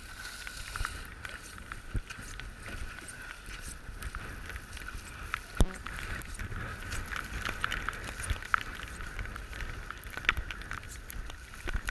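Goose decoys and gear being handled and packed: scattered light clicks and knocks, with one sharper knock about halfway through, over a steady background hiss.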